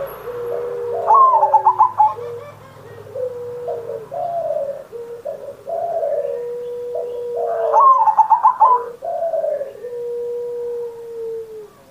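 Zebra dove (perkutut) singing: repeated low cooing phrases with long held notes. About a second in, and again about seven and a half seconds in, a quick run of higher stuttering notes breaks in.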